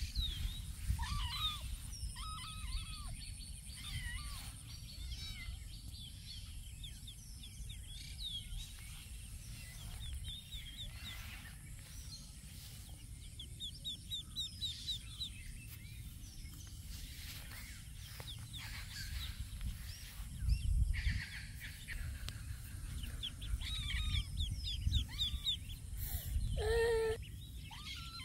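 Wild birds chirping and trilling throughout over a steady low rumble, with one short, lower-pitched animal call near the end.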